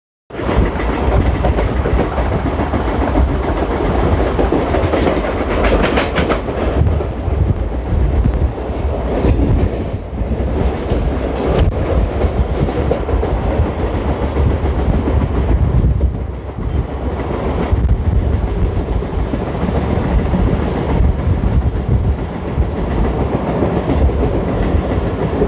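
Mumbai suburban electric local train running at speed, heard from its open doorway: a steady rumble of wheels with clattering over the rail joints. Another train passes close alongside in the first seconds, and a sharper burst of rapid clatter comes about six seconds in.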